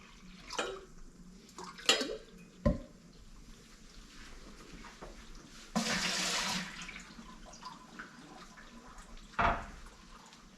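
Water poured into a big steamer pot, a rush lasting about a second near the middle, among a few light knocks and clinks of containers.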